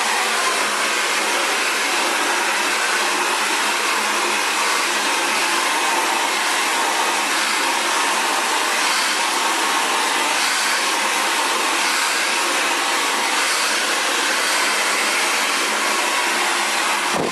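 Xtava Allure ionic ceramic hair dryer blowing steadily, a constant loud rush of air and fan noise as it dries curly hair.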